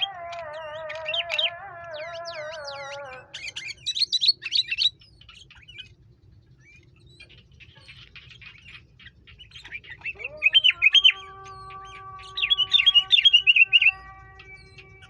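Sooty-headed bulbuls (kutilang) chirping in four short bursts of quick high notes with pauses between. Under them runs a lower wavering tone for the first three seconds and a steady held tone from about eleven seconds in.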